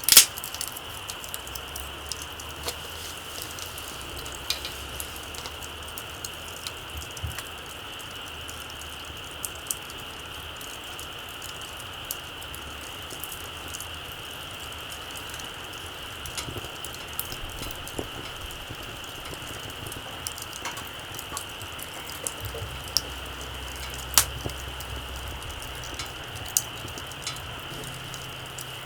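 Small wood campfire crackling, with scattered sharp pops over a steady high hiss. One loud pop comes right at the start and another about 24 seconds in.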